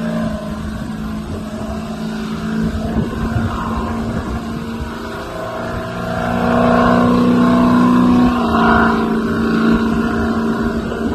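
Engines of a pulling tractor and a car running hard as they race, with a steady engine note throughout. About six seconds in, the engine note rises slightly and gets louder. A couple of seconds later it drops back.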